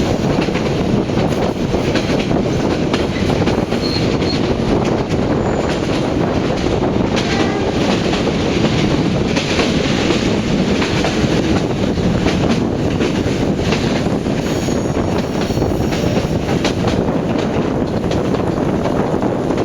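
Vietnamese passenger train running along the track, with a steady rumble of wheels on rail and a few faint, brief high wheel squeals.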